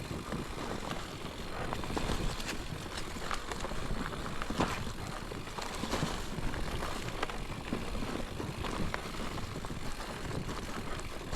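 Mountain bike riding over a dirt singletrack trail: steady tyre and rolling noise with frequent rattles and knocks as the bike goes over bumps.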